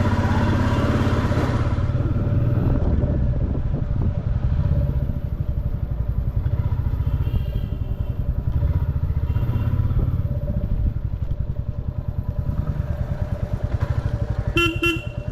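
Motorcycle engine running steadily as the bike rides through street traffic, with a brief pitched beep near the end.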